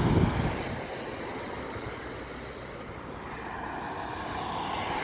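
Steady road traffic noise on a city street, growing a little louder toward the end.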